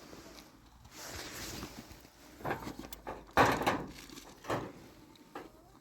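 A few knocks and scrapes, as of something being handled or a door being moved: a soft scrape about a second in, then three sharp knocks, the loudest in the middle.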